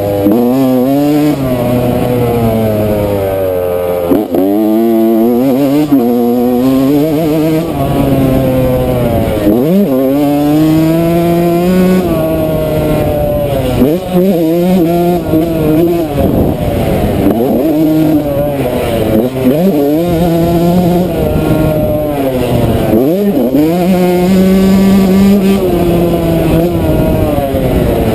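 Yamaha YZ125 two-stroke single-cylinder motocross bike being ridden hard, the engine revving up and dropping off over and over as the throttle is worked and gears are shifted, with several quick rising sweeps in pitch.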